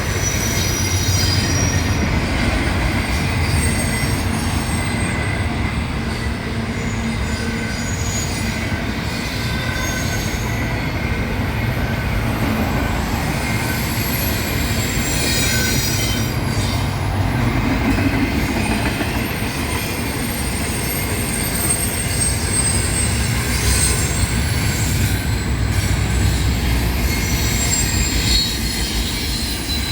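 CSX intermodal freight train's cars rolling past: a steady, loud rumble of steel wheels on rail with thin, high wheel squeal running over it.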